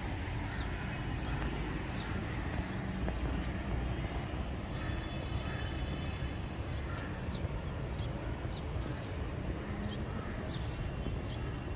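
Birds calling: a fast high trill for the first few seconds, then a series of short, separate falling chirps, over a steady low outdoor rumble.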